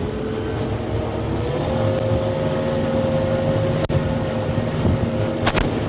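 Kubota M6-141 tractor's diesel engine running steadily under work, its pitch creeping up slightly in the first two seconds, with a short burst of sharp cracks near the end.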